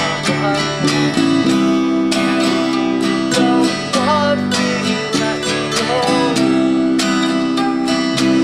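Acoustic folk band playing: strummed acoustic guitar in a steady rhythm over sustained low notes.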